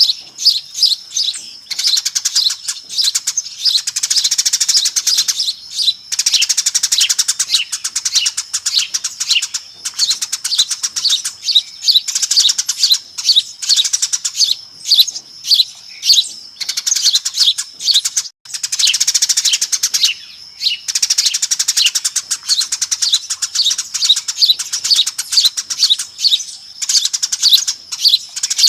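Eurasian tree sparrows chirping noisily: a dense run of rapid, repeated short chirps from several birds, with a brief break about two-thirds of the way through. It is a sparrow lure call, played to attract sparrows.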